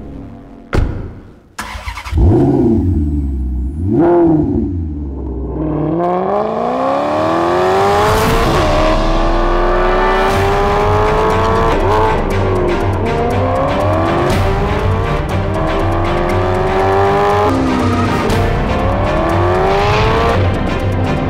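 Maserati GranTurismo MC Stradale's 4.7-litre V8: after a few sharp clicks it is blipped twice, then pulls hard up through the gears, its pitch climbing steadily and dropping abruptly at each quick upshift. Background music with a steady beat runs underneath.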